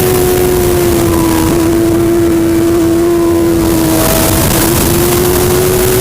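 Superbike engine running at high, nearly steady revs. Its pitch sags slightly in the first second or two, then holds.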